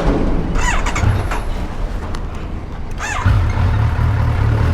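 Motorcycle engine running at a steady low rumble that grows stronger about three seconds in, with two short sweeping chirps, one near the start and one shortly before the rumble grows.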